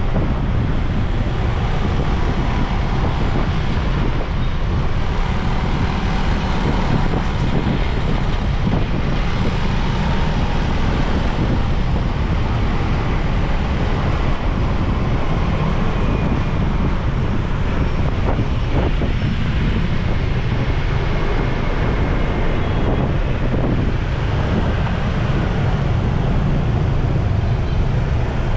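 Wind rumbling on the microphone of a moving motorbike, with road and traffic noise under it, steady throughout.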